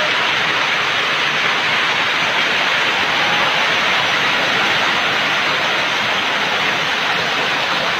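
Heavy rain pouring down on a street, a dense steady hiss with no let-up.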